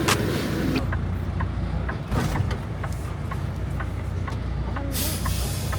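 Road vehicle driving: a steady low engine and road rumble with faint, evenly spaced ticks, and a short hiss about five seconds in.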